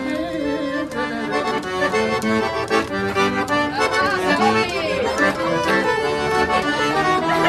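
Sanfona (accordion) playing an instrumental passage of held chords and melody between sung verses.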